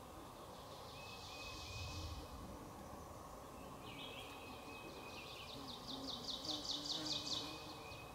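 Songbirds singing: short, thin high notes on and off, and a rapid trill of repeated notes from about the middle to near the end, which is the loudest sound. A brief faint low buzz comes about two seconds in.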